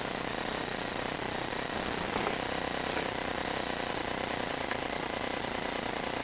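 A steady rattling mechanical noise, with a couple of faint clicks about two and three seconds in.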